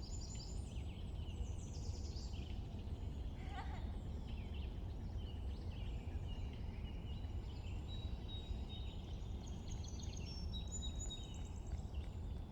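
Several small birds chirping and trilling over a steady low background rumble, with one harsher call falling in pitch about three seconds in.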